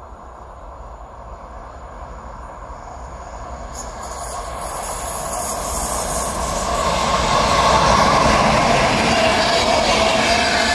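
A train approaching on the rails, growing steadily louder over the first several seconds, then running past at full level.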